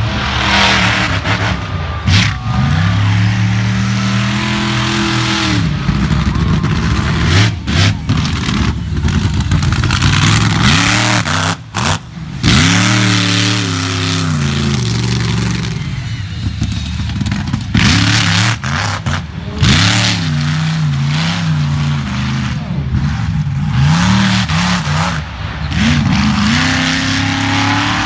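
Monster truck engine revving hard again and again, its pitch climbing and dropping every few seconds, with a few brief sharp cracks and short cut-outs along the way.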